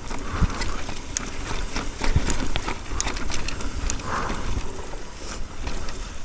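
Mountain bike riding down a rough dirt trail, with irregular clattering knocks and clicks from the tyres and frame over rocks and bumps, over a low rumble of wind and ground noise on the microphone.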